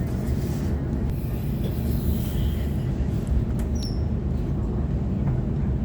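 Waratah electric train running, a steady low rumble, with a few brief high squeaks from the wheels a little past the middle.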